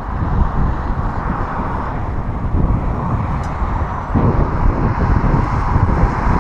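Wind buffeting the microphone of a helmet-mounted camera on a moving bicycle, with steady rolling road noise underneath. The rumble gets louder about four seconds in.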